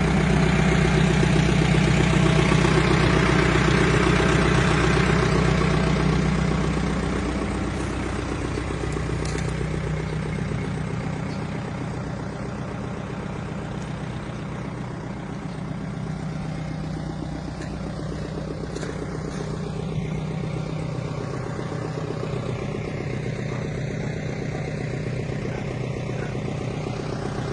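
Caterpillar 430D backhoe loader's diesel engine running steadily. It is louder for the first six seconds, then eases down to a quieter, even run with a few faint knocks.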